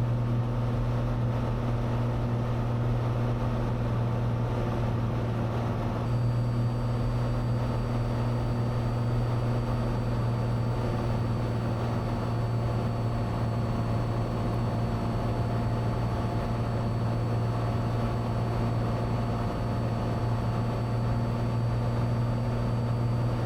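Cessna 182 Skylane's six-cylinder piston engine and propeller droning at a steady pitch inside the cabin, in flight on the landing pattern. A faint thin high whine joins about six seconds in.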